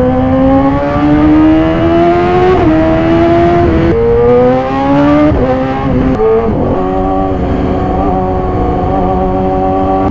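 2014 Yamaha YZF-R6's inline-four engine breathing through an SC-Project exhaust, accelerating hard with the pitch climbing, dropping twice at quick upshifts, then holding a steady pitch at constant speed near the end.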